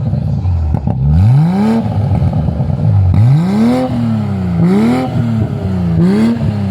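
A car engine is revved again and again through an open exhaust dump (cutout), which sends the exhaust out before the muffler. The revs rise and fall in quick blips, about once a second.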